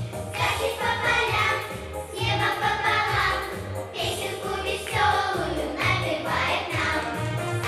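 A cheerful song: singing over an instrumental accompaniment with a rhythmic bass line.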